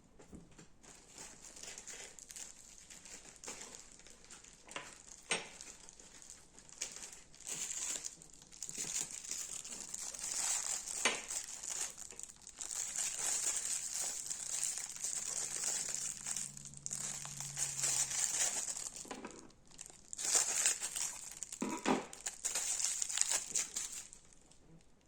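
Crunchy slime being squeezed and pressed by hand, giving a dense, irregular crackling and crunching with a few sharper pops.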